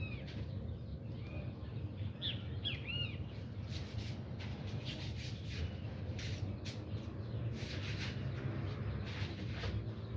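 Birds chirping, several short arched calls in the first three seconds, over a steady low outdoor rumble. From about four seconds in come many brief high clicks or rustles.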